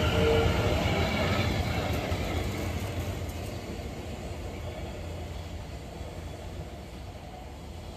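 South Western Railway electric multiple-unit train moving off past the platform. The traction motor whine rises slightly in pitch and fades over the first two seconds, along with the wheel rumble. A fainter low rumble of rolling stock is left behind.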